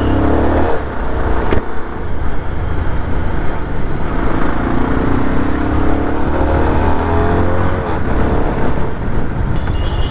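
Bajaj Pulsar 220 single-cylinder motorcycle engine under way, its pitch climbing as it accelerates: a short climb in the first second, then a long climb from about four seconds in that drops back at a gear change about eight seconds in. Steady rush of wind and road noise under it.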